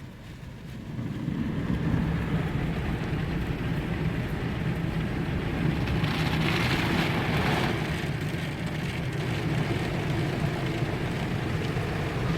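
Istobal M18+ automatic car wash spraying the car, heard from inside the cabin: a steady low hum from the machine under a rain-like hiss of spray on the body. It gets louder about a second in, and the hiss is strongest as the spray sweeps past around the middle.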